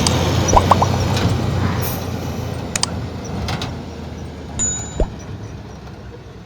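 Diesel engine of heavy earthmoving machinery running and fading away, with metallic clanks and knocks, a brief high tone past the middle and a thump about five seconds in.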